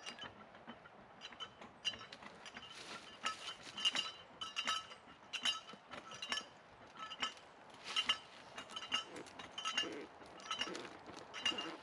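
Hand winch being cranked under heavy load: its ratchet pawl clicks in sharp, ringing metallic clinks, a few per second, in irregular groups of strokes.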